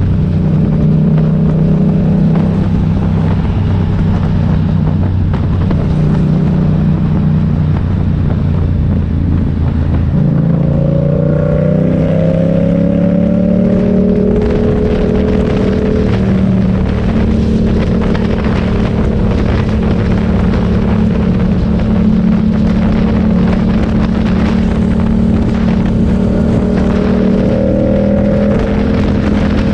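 Motorcycle engine running under way. Its note steps up and rises about ten seconds in, then holds steady, and drops off near the end.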